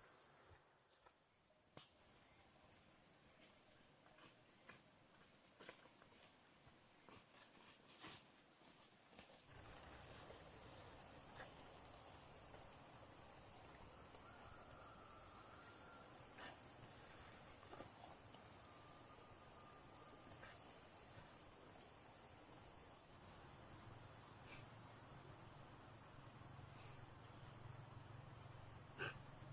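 Faint, steady high-pitched chirring of insects such as crickets, with a few small clicks and knocks. A low background rumble joins about a third of the way in.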